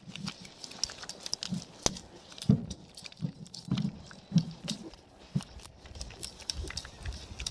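Farm animals moving about and feeding: irregular soft low thumps mixed with scattered sharp clicks, like chewing and hooves.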